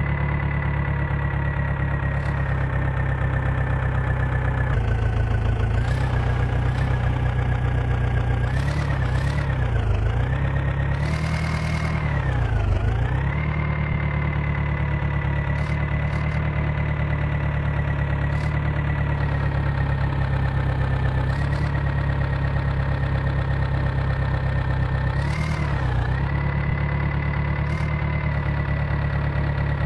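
Swaraj tractor's diesel engine running steadily at a high, even speed. Its pitch dips briefly and recovers several times, most clearly around a quarter of the way in and again near the end.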